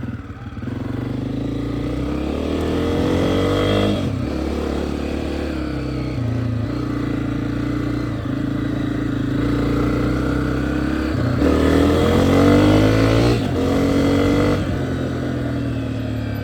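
Dirt bike engine running under way, its revs climbing and then dropping sharply several times as it speeds up and shifts through the gears.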